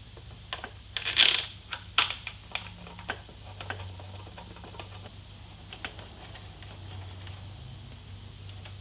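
Small metal parts and hand tools clicking and tapping while mower engine parts are fitted back together by hand, with a short scraping rustle about a second in and a sharper click just after it.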